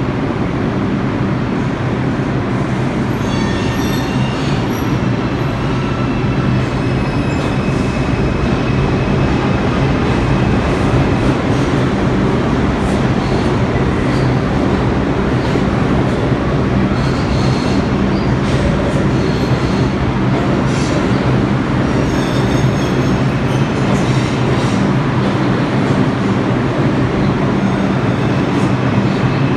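New York City subway train running through the station with a steady loud rumble and hum, and a few brief high wheel squeals.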